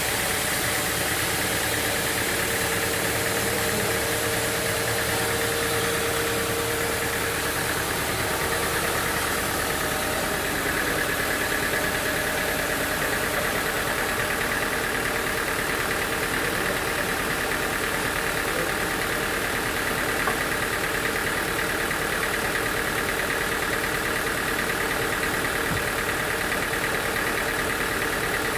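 Sawmill machinery running steadily: a continuous engine-like hum with a steady whine over it.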